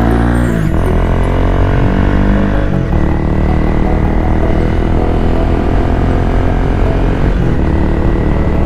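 Honda Rebel 250's single-cylinder engine through an OVER Racing SS megaphone slip-on muffler while riding, accelerating and then dropping in pitch at a gear change under a second in, with another change about three seconds in. It then runs at a steady pace.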